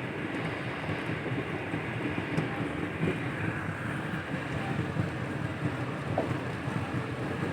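Rail vehicle running on the track: a steady, even rumble with a few faint clicks.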